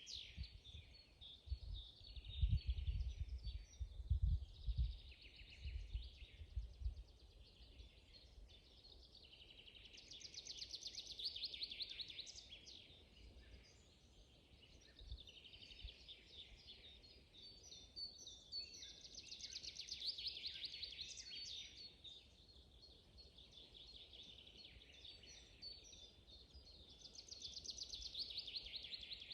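Songbirds singing in a spring forest: one bird repeats a fast, trilled song phrase about every eight seconds, with softer chirps from other birds in between. A few low thumps or rumbles sound in the first several seconds.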